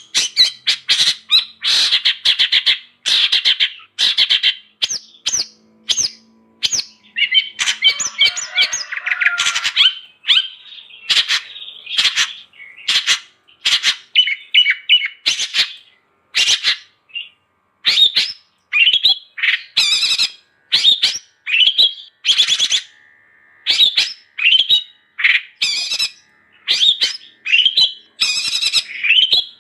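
Long-tailed shrike (cendet) singing hard: a fast, almost unbroken string of short, harsh, squawking notes and chatter.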